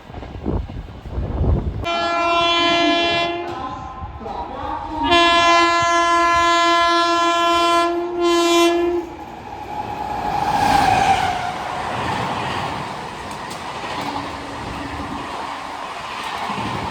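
Locomotive horn sounding: one short blast, then a long blast from about five seconds in that breaks briefly and ends in a short third blast. The train then rushes through, a steady noisy rumble of wheels on rail.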